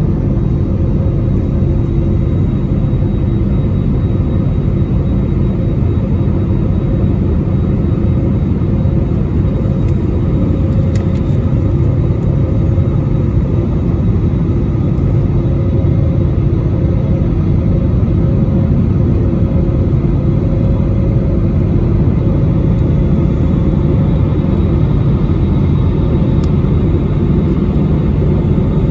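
Cabin noise of an Airbus A320neo climbing after takeoff: the turbofan engines and airflow make a loud, steady rumble with a few steady engine tones running through it.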